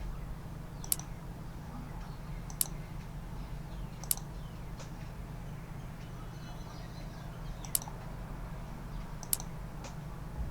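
Computer mouse clicking about seven times, single sharp clicks spaced irregularly, over a steady low hum.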